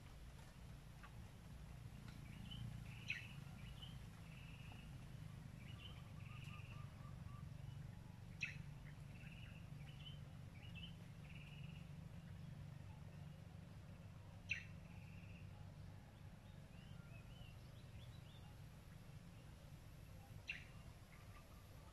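Faint birds calling in woodland: a sharp, short high note four times, about every six seconds, with softer chirps between, over a low steady hum.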